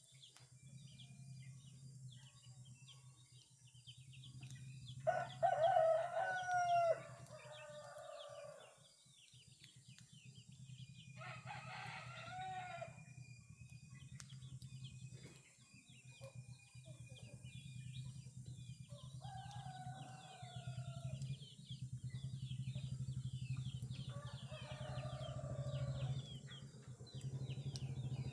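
Rooster crowing four times, about six seconds apart, each crow a loud pitched call lasting two to four seconds. Small birds chirp faintly throughout, over a steady low hum that grows louder toward the end.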